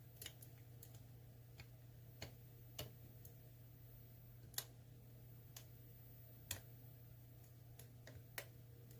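Faint, irregular clicks of a dimple pick working the spool pins inside an ASSA Twin Combi lock cylinder, over a low steady hum.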